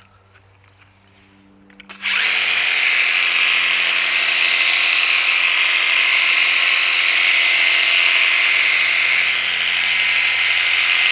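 Worx WG633 Hydroshot cordless pressure washer starting about two seconds in and running steadily, its brushless motor and pump driving water out through a sprinkler attachment with a loud, even hiss.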